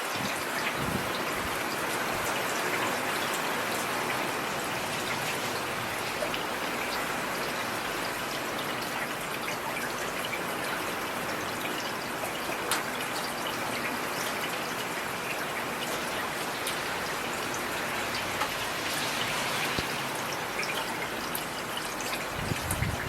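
Heavy rain falling steadily, an even hiss with scattered faint ticks of individual drops.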